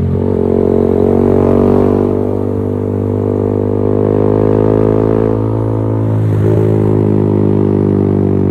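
Yamaha XSR 155's single-cylinder engine through a LeoVince GP Corsa Evo aftermarket exhaust, running loud and steady at a nearly constant pitch, with a brief break in the note about six seconds in.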